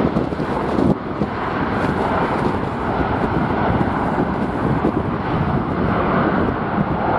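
Jet airliner's engines heard through heavy wind buffeting on the microphone.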